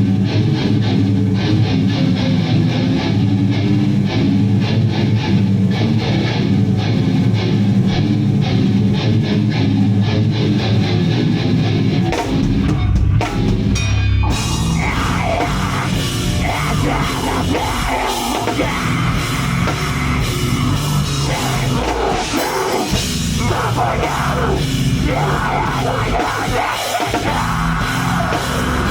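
Live heavy band playing loud, with distorted guitar and a drum kit; about halfway through the texture changes as the band shifts into a new section.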